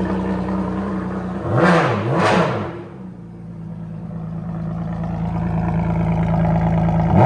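Ferrari Enzo's 6.0-litre V12 with a straight-piped exhaust, idling shortly after a cold start. About a second and a half in it is blipped twice in quick succession, the pitch rising and falling each time, then settles back to a steady idle. Another rev begins right at the end.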